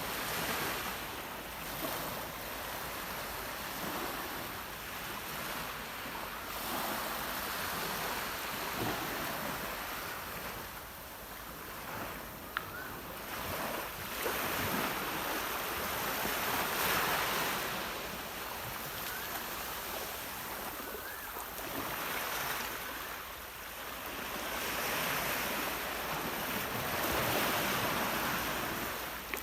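Sea waves washing ashore, swelling and easing every few seconds.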